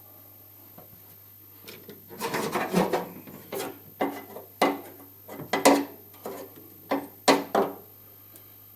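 Shifter cables being handled and pushed through a hole in a car's sheet-metal firewall: rubbing and clattering with several sharp knocks, starting about two seconds in.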